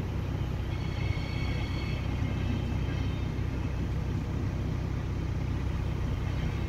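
Siemens Desiro HC electric multiple unit of the Rhein-Ruhr-Express passing at close range: a steady low rumble of the train rolling by, with a brief high whine about a second in.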